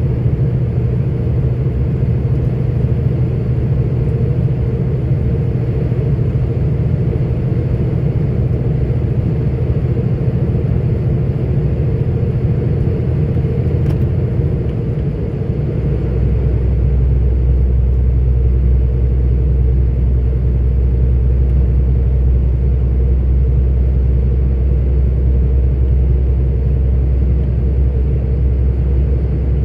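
Steady drone of a 44-ton articulated truck's diesel engine and road noise heard from inside the cab while driving. About halfway through, the engine note drops to a deeper, stronger hum.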